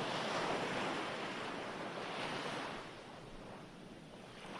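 Recorded ocean surf: a wave washes in and slowly recedes, fading about three seconds in, with the next wave starting to build near the end.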